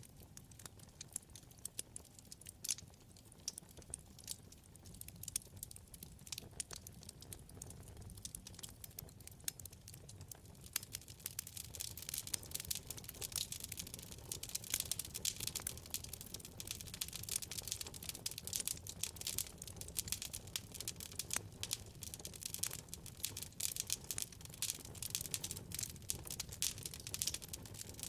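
Wood fire burning in a fireplace: a steady stream of sharp crackles and pops over a low rumble of the flames, the crackling growing denser and louder about a third of the way in.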